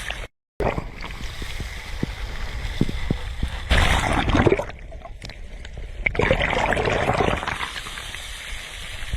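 Sea waves washing onto the shore, with two louder surges of breaking, splashing water about four and six seconds in.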